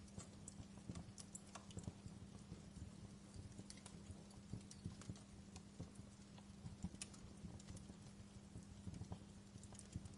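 Wood fire crackling: irregular small pops and snaps, several a second, over a low rumble and a faint steady hum.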